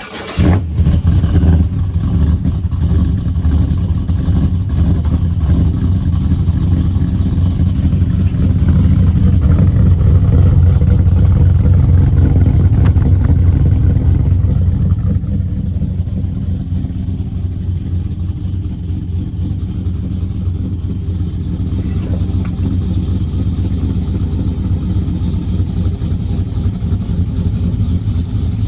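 Cammed LS2 V8 running through new long-tube headers and a true dual exhaust with an X-pipe, just started and idling steadily and loud. It swells a little louder through the middle, then settles slightly lower. The engine is not yet tuned for the cam.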